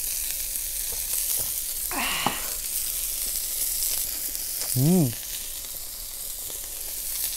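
Pork belly sizzling on a cast-iron pot lid (sotttukkeong) over a wood fire: a steady frying hiss as the fat renders. A short voiced exclamation comes about two seconds in, and a brief hum comes near five seconds.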